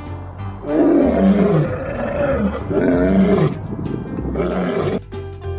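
Lion roaring: a series of grunting calls about a second apart, each falling in pitch, over background music. The calls stop about five seconds in.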